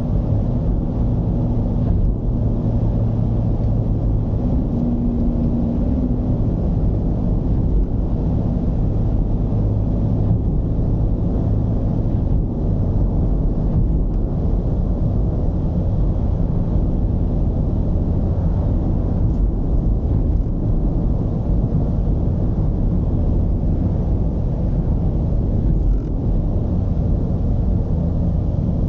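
Mercedes-Benz V220's four-cylinder diesel engine running under way, a steady low rumble mixed with road noise, its engine note shifting slightly as the van drives.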